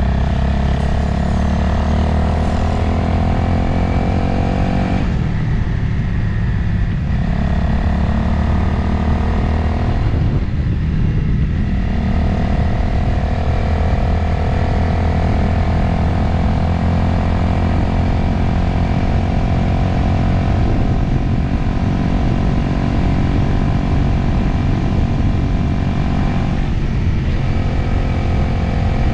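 Motorcycle engine pulling steadily under way, its pitch climbing slowly, with the throttle easing off and picking up again twice and once more briefly near the end, over wind rush on the rider's helmet microphone.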